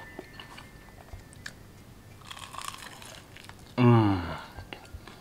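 Close-up crunching bites and chewing of fried chicken, with small wet clicks of the mouth. About four seconds in comes a loud, falling "mmm" of enjoyment.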